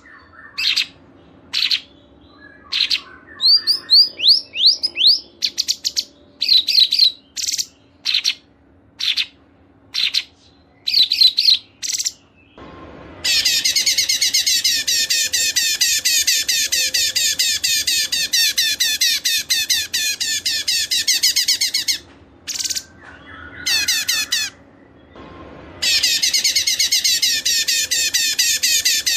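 Caged songbirds: first a string of short, sharp high calls with pauses between them, including a few quick rising whistles. About thirteen seconds in, a long, rapid, unbroken twittering song starts. It stops for a few seconds with only brief notes, then starts again near the end.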